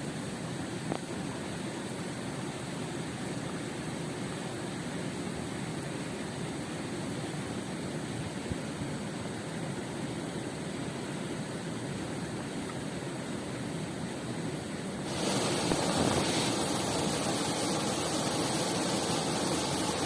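Steady rush of a river and waterfall, getting louder and brighter about fifteen seconds in.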